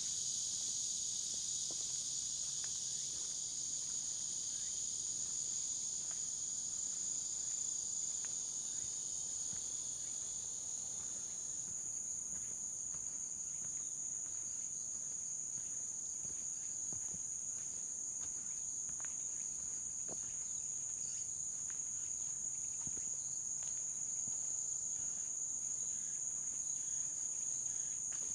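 Steady, high-pitched chorus of insects, a continuous shrill trilling, with a second, lower insect layer that stops about twelve seconds in. Faint footsteps on the trail sound underneath.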